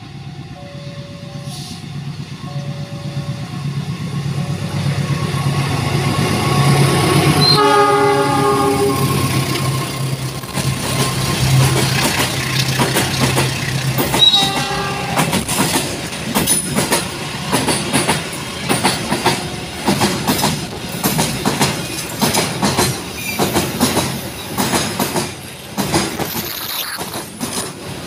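A diesel-hauled train approaching and passing over a level crossing: a two-note crossing warning alarm fades out as the locomotive's engine hum grows louder, the locomotive horn sounds twice, a longer blast then a short one, and then the wagons' wheels clatter past in a steady rhythm of rail-joint knocks.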